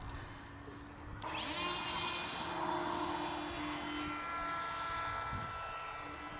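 Radio-controlled model aeroplane's motor and propeller powering up about a second in, rising quickly in pitch, then running at full throttle with a steady whine that grows quieter near the end. This is the throttle-up for a hand launch.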